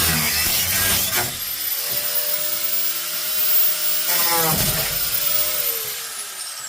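Corded DeWalt power tool cutting sheet metal. After about a second it runs freely with a steady high whine, is briefly loaded again, then winds down near the end with a falling whine.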